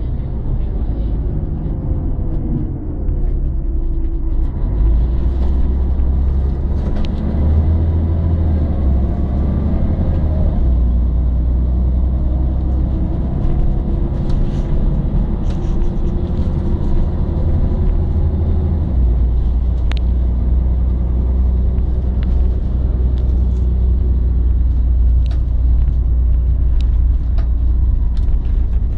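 Scania L113 city bus's 11-litre straight-six diesel running under way, with a deep rumble; its pitch climbs and drops a few times as the bus pulls away and changes gear. Occasional short clicks and rattles sound over it.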